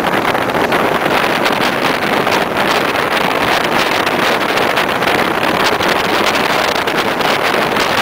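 Steady rush of wind on the microphone, held out of the window of a moving passenger train, mixed with the train's running noise.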